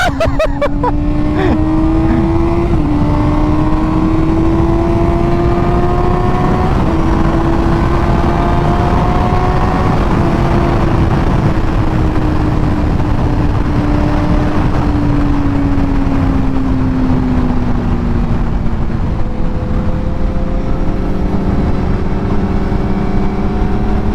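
Sportbike engine under way: a sharp rev right at the start, then a steady tone that climbs slowly and eases back down as the bike cruises, over a constant low rumble of wind and road noise.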